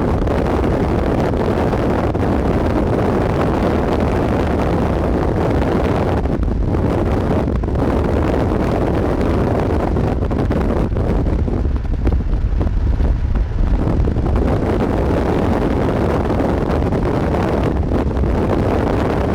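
Strong wind buffeting the microphone: a steady heavy rumble with gusts rising and falling.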